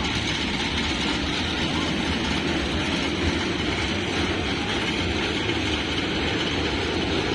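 A fairground train ride running, giving a steady, even rumble of engine and rolling noise.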